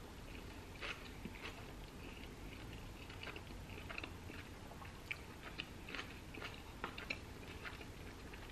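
A person chewing a mouthful of Burger King Impossible Whopper close to the microphone: faint mouth smacks and clicks at irregular intervals.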